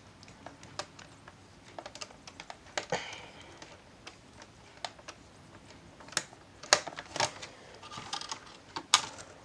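Irregular small clicks and taps of laptop plastic being handled and pried at, with a couple of short scraping rustles, as the case is worked open.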